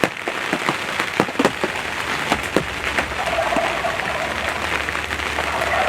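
Rain falling on a hunting ground blind, with irregular drops striking sharply over a steady patter of rain.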